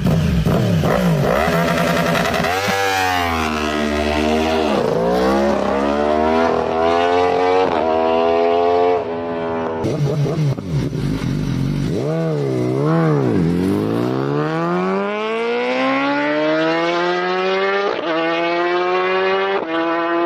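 Motorcycle engine revving through its exhaust. The pitch rises and falls again and again, then climbs in one long, steady rise over the last few seconds.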